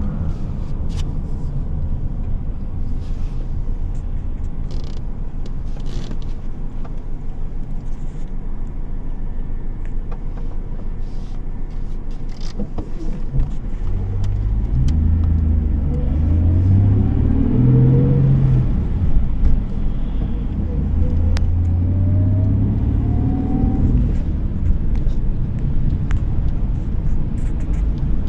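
Car driving with a steady low rumble of engine and road noise. About halfway through the engine note comes up strongly and rises in pitch in several steps as the car accelerates through its gears.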